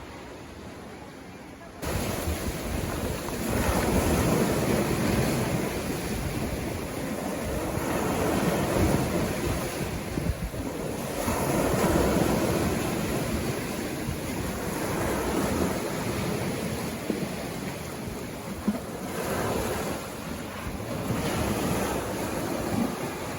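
Sea waves breaking and washing up a beach, the surf swelling and easing every few seconds. For about the first two seconds only a fainter hiss is heard, then the surf comes in suddenly louder.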